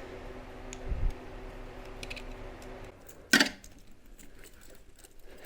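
Light metallic clinks and a dull knock, then one sharp clatter about three seconds in, from a hose clamp and tools being worked onto a heater hose, over a faint steady hum.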